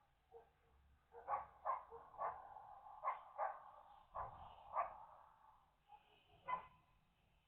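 A dog barking: about seven short, sharp barks at irregular intervals, with a quieter bark or whine in between.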